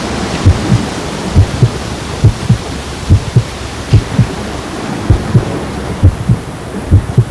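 A slow heartbeat: paired low thumps repeating about once a second over a steady hiss.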